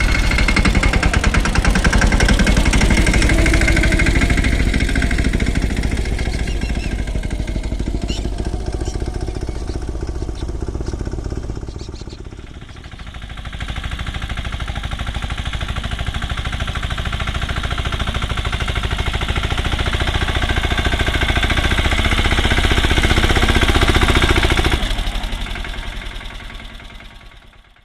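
Swaraj mini tractor's diesel engine running steadily with a rapid, even chugging. The sound dips a little under halfway through, picks up again, and fades out near the end.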